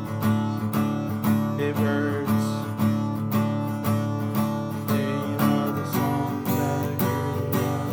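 Acoustic guitar strummed in a steady rhythm, with a chord change about six seconds in.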